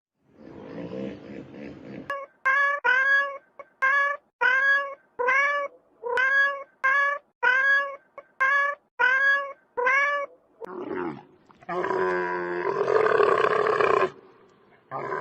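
An animal calling over and over: about a dozen short cries, each rising and falling in pitch. A rougher, raspy growling sound follows near the end.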